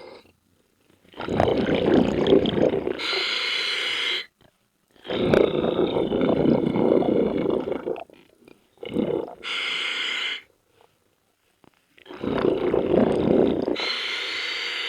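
Scuba diver breathing through a regulator underwater: three long bubbling exhalations, each paired with a short hissing inhalation, with quiet gaps between breaths.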